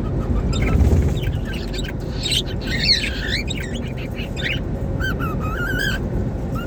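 Cockatiel chirping and whistling: a run of rising and falling chirps about two seconds in, then a wavering whistled call about five seconds in, over a steady low rumble.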